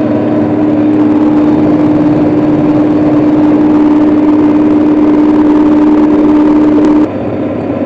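A John Deere 4055 tractor's diesel engine running steadily while driving, with a strong steady whine over the engine noise. About seven seconds in, the whine stops and the sound drops in level.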